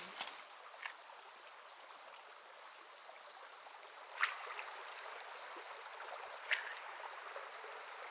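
Forest stream running steadily with an insect chirping in a high, rapid pulsing trill throughout. Three short falling chirps break through, about one second, four seconds and six and a half seconds in.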